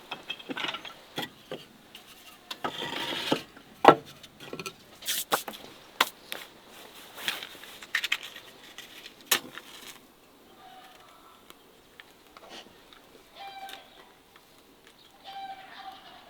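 Irregular sharp knocks and clicks with some rustling for about ten seconds, then it goes quieter, with a few short, faint animal calls.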